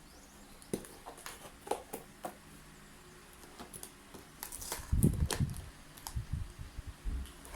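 Hands handling jewelry packaging: scattered small clicks and taps, with a cluster of low bumps and knocks about five seconds in.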